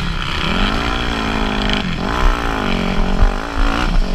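Motocross bike engine revving up and down, its pitch climbing, dipping and climbing again several times, as when the throttle is worked and gears are changed.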